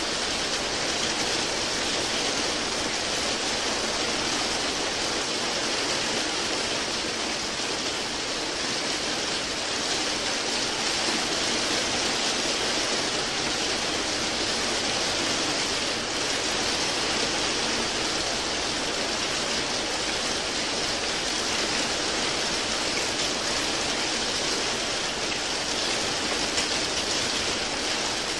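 Steady rain falling, an even hiss of water with no separate drops standing out.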